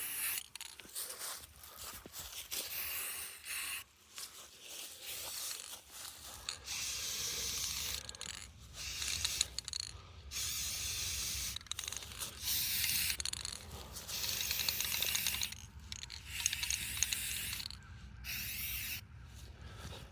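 Aerosol can of high-heat engine paint spraying in repeated hissing bursts of a second or two. Clicking and rattling in the first few seconds, typical of the can being shaken.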